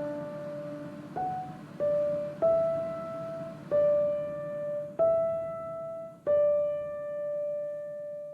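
Background piano music: slow single notes struck one after another, the last held and fading out.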